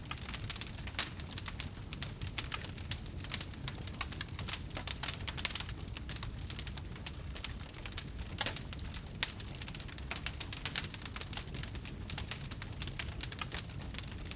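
Wood fire burning: fast, irregular crackling and popping over a low steady rumble, with a few louder pops.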